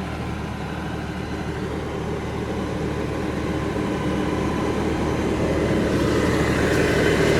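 LS compact tractor's diesel engine running steadily, growing gradually louder.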